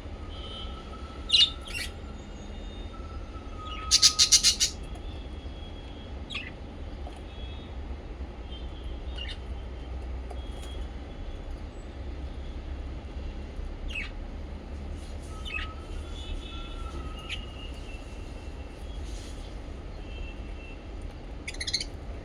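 Small pet parrots chirping: scattered short, sharp chirps, with a loud quick run of about five chirps around four seconds in. A steady low hum runs underneath.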